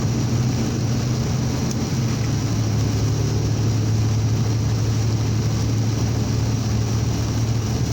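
Steady low engine drone with road and wind noise, heard from inside a moving vehicle's cab at highway speed.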